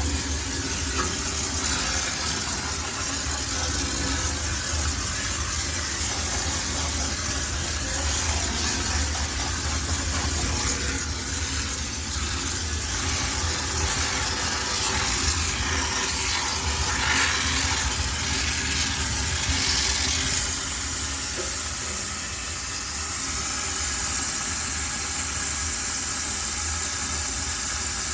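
High-pressure steam sterilizer jetting steam in a steady, continuous hiss, with a low hum underneath.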